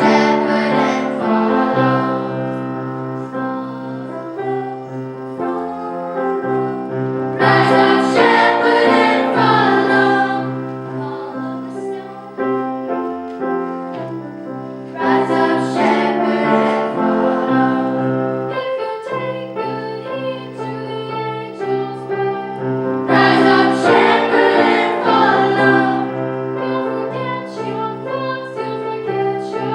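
Choir singing with piano accompaniment, in phrases that swell louder about every seven to eight seconds.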